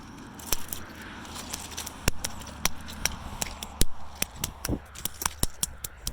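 Stones crunching and clicking: a run of sharp, irregular clicks, several a second, coming faster in the second half.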